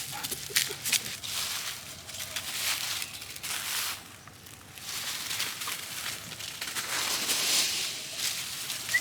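Dry leaves and ground litter crunching and rustling underfoot in irregular bursts as people and dogs move about. The sound eases briefly about halfway through.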